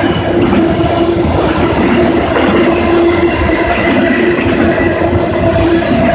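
Long CSX autorack freight train rolling steadily past, its steel wheels clattering over the rails. A steady tone sounds over the rumble.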